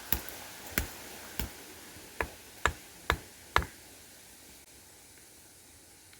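A series of seven sharp knocks, the last four coming faster, about two a second, then they stop.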